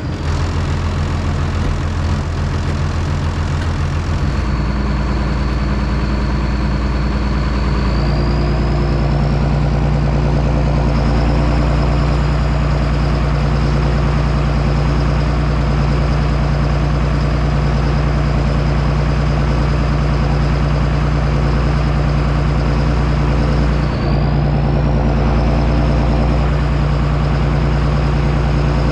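John Deere 6630 Premium tractor's six-cylinder diesel engine running steadily under load while plowing. Its note shifts a few seconds in, and a high whine rises in pitch about 8 seconds in and again about three quarters of the way through.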